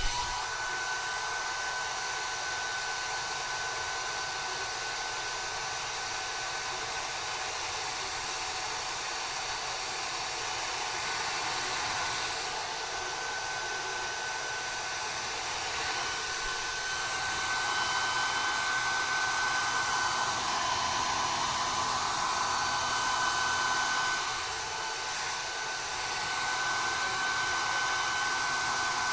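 Hand-held hair dryer running steadily: a rush of air with a steady high whine from its motor, a little louder for a few seconds past the middle.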